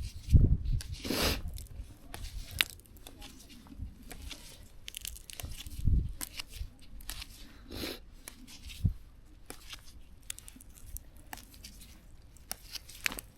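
Crisp rustling, snapping and tearing of leafy plant stems, irregular and close by, as garlic mustard is picked by hand, with a few soft low thumps in between.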